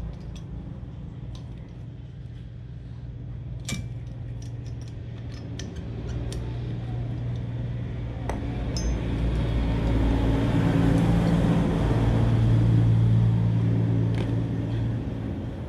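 A low engine hum that grows louder through the second half and then eases off, with a few light metallic clinks.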